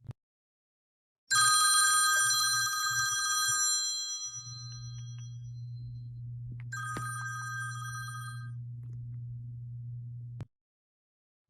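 A bell rings twice: a loud ring about a second in that fades out over about three seconds, and a shorter, fainter ring about halfway through, over a steady low hum.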